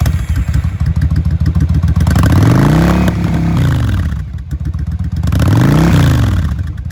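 Yamaha V-Star 1100's V-twin engine running through a Vance & Hines exhaust, idling and revved twice: once about two seconds in, held briefly, and again near the end, each time rising and dropping back to idle.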